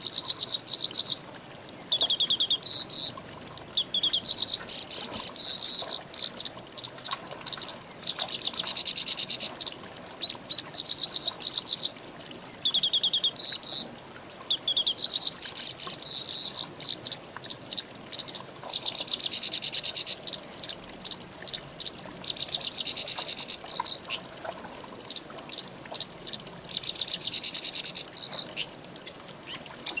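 Songbirds singing in fast trilled phrases of rapidly repeated notes, one phrase after another with short pauses, over a steady high-pitched insect drone.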